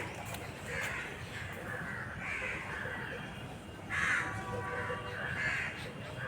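Crows cawing, a run of repeated calls, the loudest about four seconds in.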